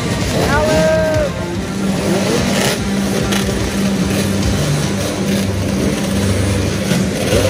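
Two-stroke motorcycle and quad engines running and revving together in a rough, crackling drone, with a brief high call about half a second in.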